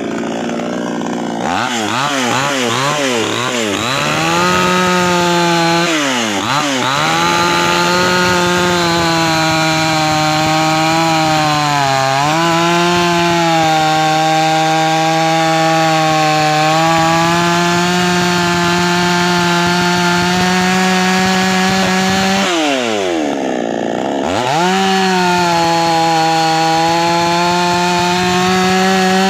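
Two-stroke chainsaw held at high revs while cutting through wood. The pitch wavers up and down with throttle blips in the first few seconds and sags briefly a few times under load. It drops toward idle about three-quarters of the way through, then revs back up.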